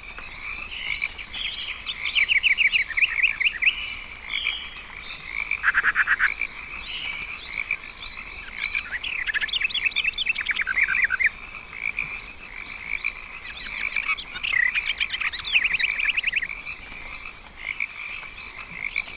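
Rainforest frog chorus: frogs calling in rapid trills that come in bouts every few seconds, over a steady high-pitched hum, with small high chirps scattered through.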